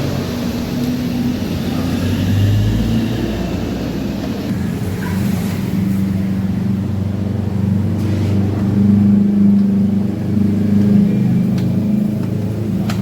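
Yamaha Mio Soul scooter's small single-cylinder engine running steadily, its note swelling a little now and then, after the loose intake manifold bolts have been replaced with larger 12 mm bolts to stop an air leak.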